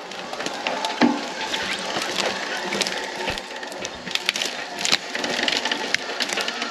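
Brush and branches cracking and snapping, a run of irregular sharp cracks over a steady rustling noise.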